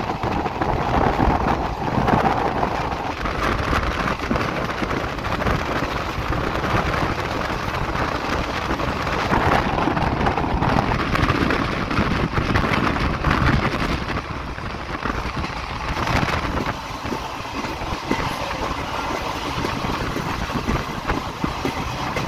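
Passenger train running on the rails, heard from on board the coach: a steady rumble and rattle of wheels and coach body, with many small clicks and knocks, easing a little about two-thirds of the way through.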